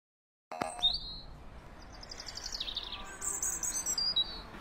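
Small birds chirping and twittering, with quick runs of high notes that rise and fall, starting about half a second in.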